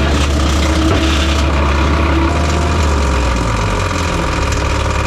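ASV RC85 compact track loader's diesel engine running with the forestry mulcher head spinning, a loud steady drone that shifts in pitch about three and a half seconds in.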